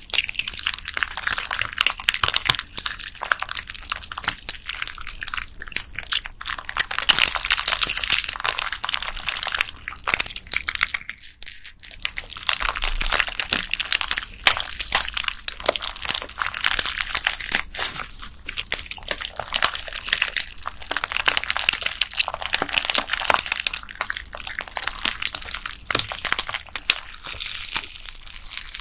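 Slime packed with small plastic beads being squeezed, pressed and stretched by hand, giving a dense, continuous crackle of tiny clicks and crunches, with a brief pause about eleven seconds in.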